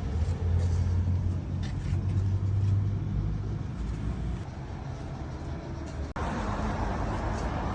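An engine running with a steady low drone. About six seconds in the sound cuts off abruptly and is replaced by a brighter, hissing machine noise.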